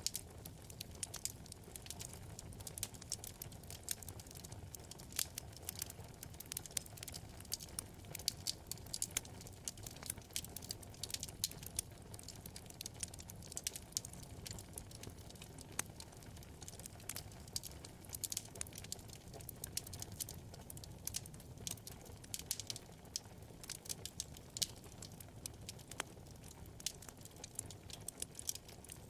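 Wood fire crackling in a fireplace: dense, irregular sharp pops and snaps over a low steady rumble.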